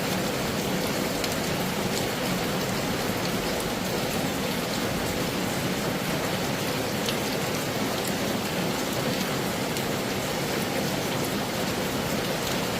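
Heavy rain falling steadily: a dense, even hiss with scattered faint drop ticks.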